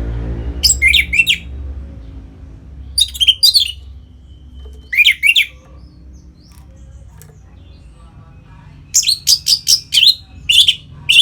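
Orange-headed thrush singing in short, loud phrases of quick high notes, with gaps between them and a denser run of phrases near the end.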